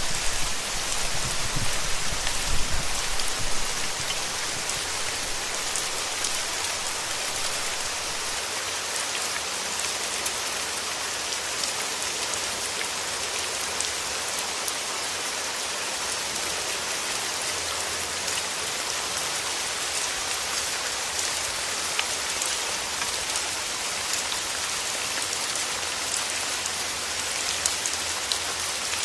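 Steady rain, an even hiss with fine pattering drops throughout. A low rumble sits under it for the first few seconds and then fades out.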